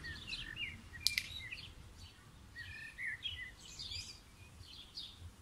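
Small birds chirping, many short calls one after another, with a sharp click about a second in.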